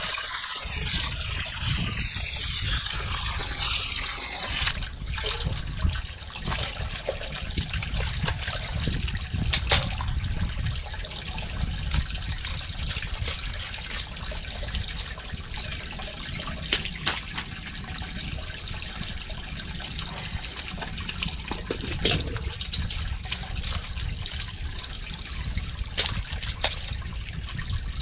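Groundwater trickling steadily along a freshly dug drainage channel in mud, with a few sharp knocks.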